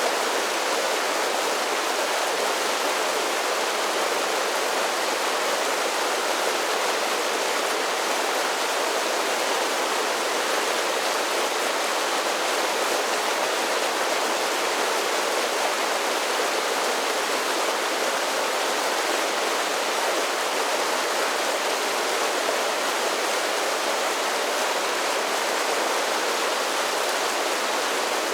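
Mountain creek cascading over a series of small falls, a steady, even rush of water with no breaks.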